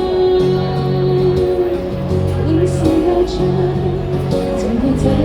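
Live pop band music: a bass line moves under sustained chords, and a long held melody note opens the passage, with some singing.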